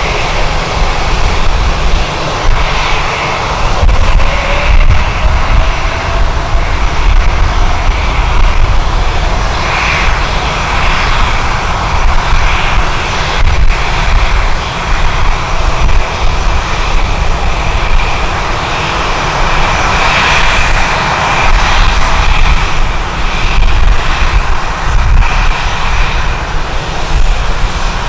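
Jet airliner engines running loud, with a steady high whine in the second half, over heavy gusting rumble of strong wind on the microphone.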